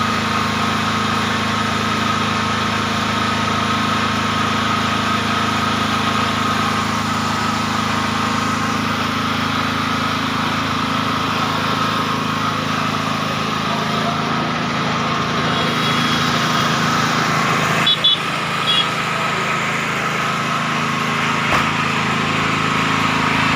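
A 10 kVA portable generator's engine running steadily after a recoil-rope start, with one brief click about eighteen seconds in.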